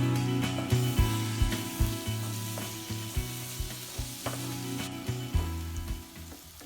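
Small onions, green chillies, ginger-garlic paste and curry leaves sizzling in hot coconut oil in a pan, stirred with a spoon that clicks against the pan now and then.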